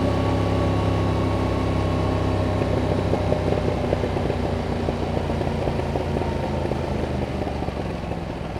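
Yamaha MT-07 parallel-twin engine running through its stock exhaust at steady, moderate revs, the pitch easing down slightly toward the end.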